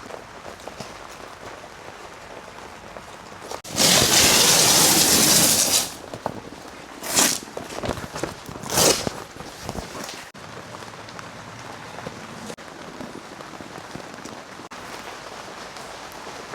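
Rain falling, a steady hiss, with a loud surge of noise about four seconds in that lasts about two seconds, then two short louder gusts a few seconds later.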